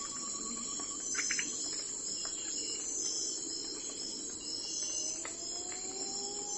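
Crickets chirping in a steady, high pulsing chorus over a soft background hum. A fast ticking call sounds in the first second, followed by a few sharp clicks.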